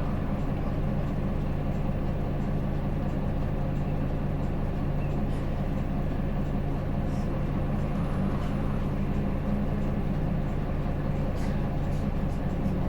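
Hino Blue Ribbon City diesel city bus running steadily, heard from inside the passenger cabin: a constant engine hum with road and body noise, a few faint clicks and rattles.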